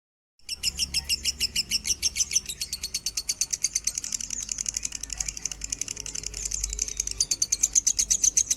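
Lovebird singing a long, unbroken run of rapid, even chirps at about ten a second, in the continuous 'konslet' style. It starts abruptly about half a second in.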